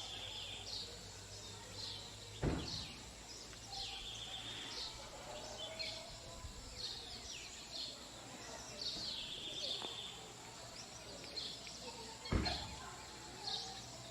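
Birds calling over and over, a pattern of short high falling notes followed by a flat buzzy phrase that repeats every four or five seconds, over a low hum. Two sharp thumps, the loudest sounds, come about two and a half seconds in and near the end.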